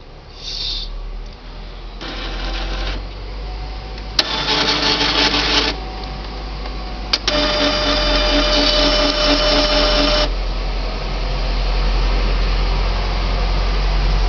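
Epson CX3700 inkjet printer running its start-up routine: the print-head carriage and paper-feed motors whir in several bursts, the longest about three seconds with a steady whine, then settle into a quieter steady run.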